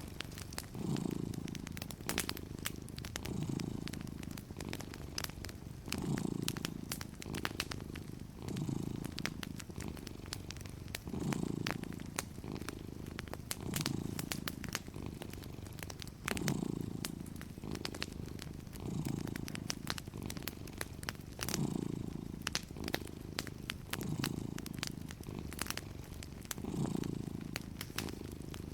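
Domestic cat purring steadily, the low purr swelling about every two and a half seconds with each breath, over the light irregular pops and crackles of a wood fire.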